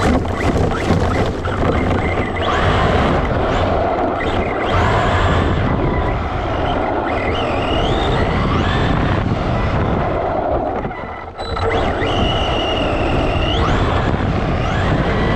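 Electric motor of a hobby-grade RC truck whining as it is driven hard, the pitch rising and falling repeatedly with the throttle over a steady loud rushing noise, with a brief drop about eleven seconds in.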